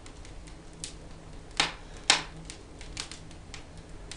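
Firewood burning in a fireplace, crackling with scattered small pops and two sharper cracks about one and a half and two seconds in.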